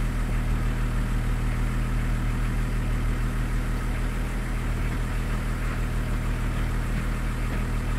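Range Rover P38 engine idling steadily, an even low hum.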